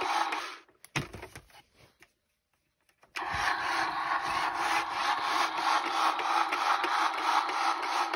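Battery-powered toy monster truck's drive motor and plastic gears whirring with a faint regular ticking. It cuts out about half a second in, a knock follows, and after about two seconds of near silence it knocks again and the whirring starts up again.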